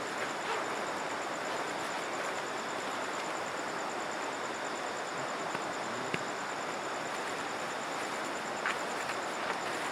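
Steady rush of flowing river water, with an insect's high, rapidly pulsing trill running over it.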